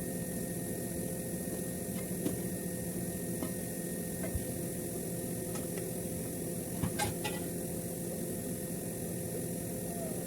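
Steady machine hum holding several fixed tones, with a few faint clicks and taps; the loudest pair of clicks comes about seven seconds in.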